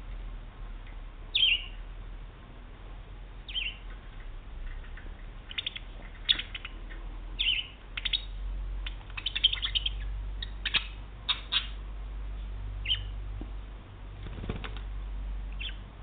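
Budgerigar giving short, sharp chirps, about a dozen, scattered at first and coming in a quick run through the middle, over a faint steady low hum.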